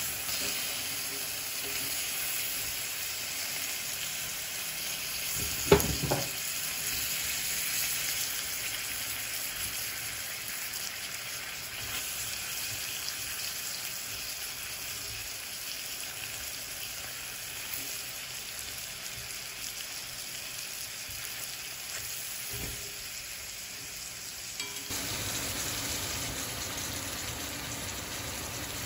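Food frying and sizzling steadily in a Lodge cast iron skillet, with a sharp knock about six seconds in and a softer one later.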